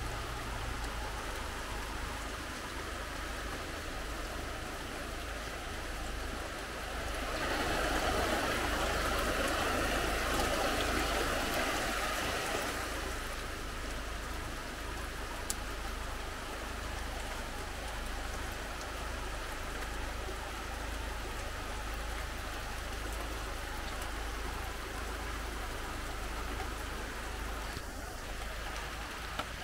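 Steady rain falling, growing heavier for about six seconds about a quarter of the way in.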